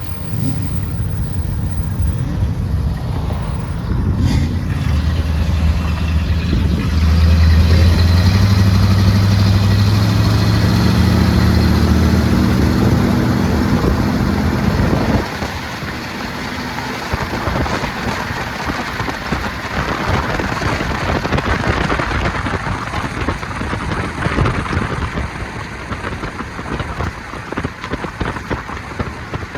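A car engine running close by with a steady low hum that gets louder about seven seconds in and cuts off suddenly about fifteen seconds in. After it, an even rushing noise.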